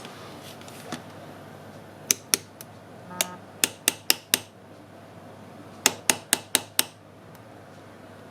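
Sharp, small clicks and taps of metal tools and phone parts being handled on a repair bench, coming in two quick runs of about five clicks each, with one light clink that rings briefly.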